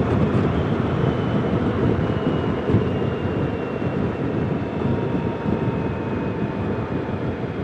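Motorcycle riding at road speed heard through a helmet-mounted camera mic: a steady rush of wind buffeting over the engine's drone, with a faint high whine slowly dropping in pitch as the bike eases off.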